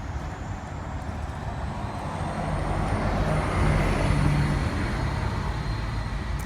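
Road traffic: a passing vehicle's rumble swells to a peak midway and then eases off.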